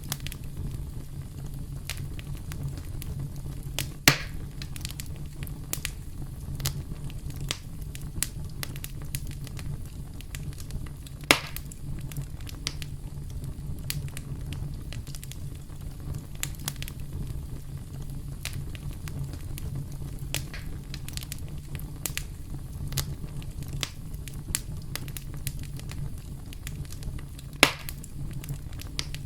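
Wood campfire crackling steadily, with frequent sharp snaps over a low, even rumble. Three much louder pops stand out, about 4 s in, about 11 s in and near the end.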